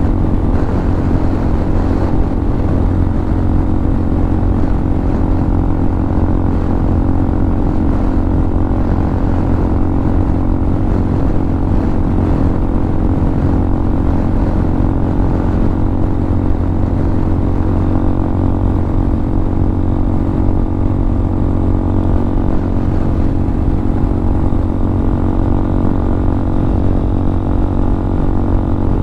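Single-cylinder engine of a Hawk 250 motorcycle, fitted with a Motocults stage 4 kit, running steadily at cruising speed, its pitch held even with no revving or gear changes.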